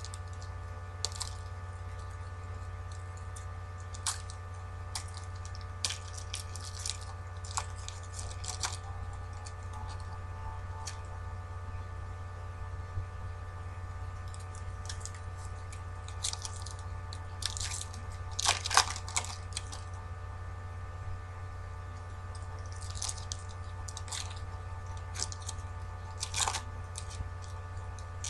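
Trading card packs being torn open and the cards handled, heard as scattered crinkles and rustles of wrappers and card stock, loudest around two-thirds of the way through. A steady electrical hum runs underneath.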